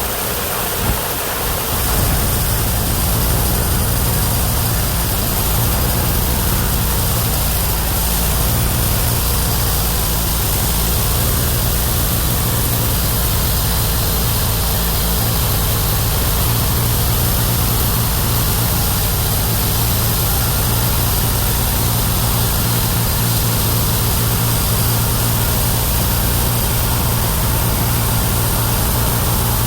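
The 31 hp engine of a homemade bandsaw mill running steadily with a constant low drone and hiss, picking up slightly about two seconds in and then holding an even speed.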